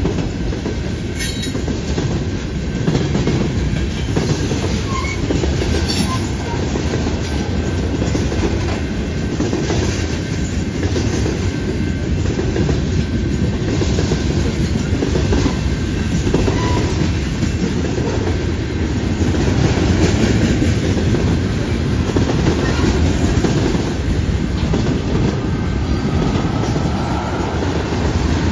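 Freight cars of a passing train rolling by at close range: a steady rumble of steel wheels on rail with scattered clacks over the track.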